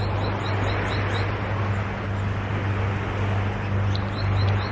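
A steady low hum over a broad background noise, with a bird's quick run of short high rising chirps, about three a second, that stops about a second in; another chirp comes near the end.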